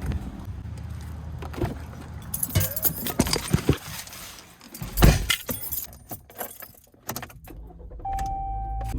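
Keys jangling and clattering over a low rumble, then a single heavy thump about five seconds in. A steady electronic beep sounds in the last second.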